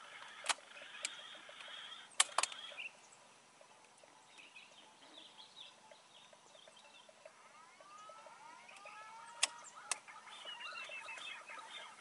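Faint chirps and sliding whistled calls of birds in the treetops, with three pairs of sharp clicks, the loudest about two seconds in.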